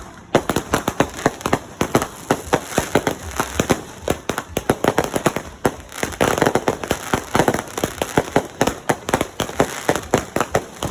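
Fireworks and firecrackers going off: a dense, rapid run of sharp pops and cracks, many a second, after a brief lull at the start.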